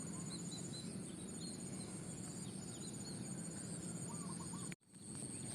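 Field ambience of insects trilling steadily at a high pitch, one of them pulsing, with short high bird chirps every so often over a low steady rumble. The sound cuts out for an instant near the end.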